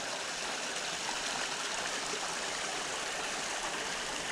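Creek water running steadily over rocks, a constant rushing with no other events.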